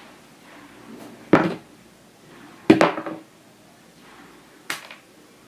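Three sharp knocks on a hard surface, about a second and a half apart; the first two are the loudest and the last is lighter.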